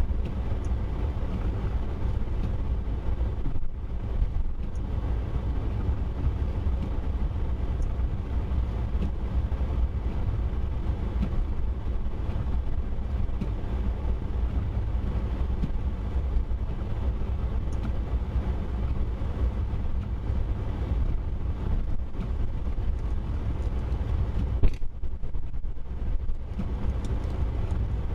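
Steady low rumble of a car's engine and tyres heard from inside the cabin while driving, with a single sharp knock near the end.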